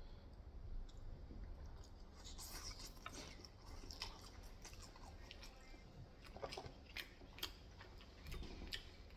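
Faint close-miked chewing and mouth sounds of someone eating, with many small wet clicks that come thicker from about two seconds in.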